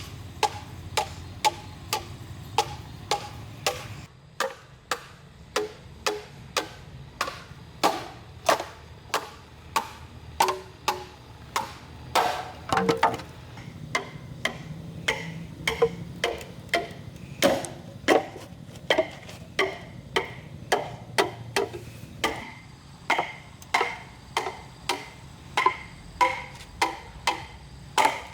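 Bamboo being chopped with a blade: steady, even strikes about two a second, each with a brief ring.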